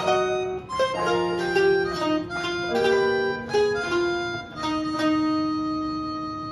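Taishōgoto playing a quick plucked melody over sustained accompanying tones, then settling about five seconds in on a long note that rings on and slowly fades.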